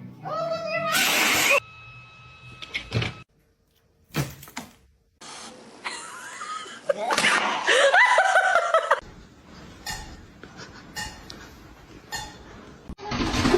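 A cat meowing in long, wavering calls: one near the start and a louder one in the middle, with sudden cuts and a short silence between.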